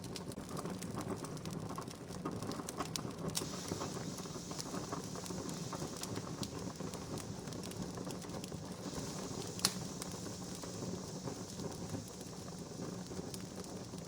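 Wood campfire crackling, with frequent small pops and a soft hiss that comes and goes. One sharper pop comes about ten seconds in.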